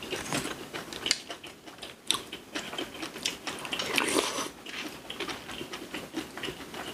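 Close-miked chewing of rice and seasoned cockles wrapped in seaweed, with irregular crunches and sharp little clicks, the loudest a bit after a second and just after two seconds in.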